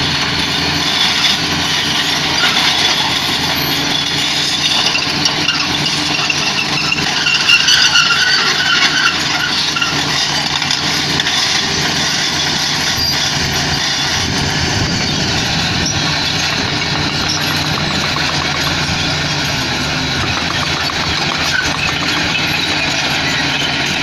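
Diesel engine of heavy earthmoving machinery running steadily under work, with a few brief high squeals about a third of the way in.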